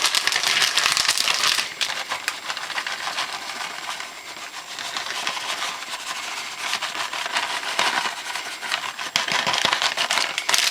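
Crinkling and rustling of food packaging, thick with small clicks. It is loudest in the first couple of seconds, softer through the middle and picks up again near the end.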